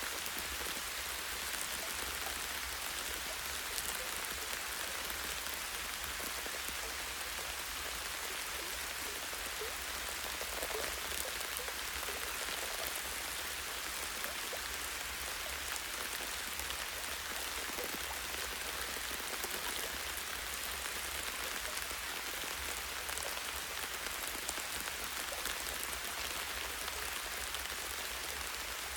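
Steady light rain with many fine individual drops pattering on leaves and branches, an even hiss with no breaks.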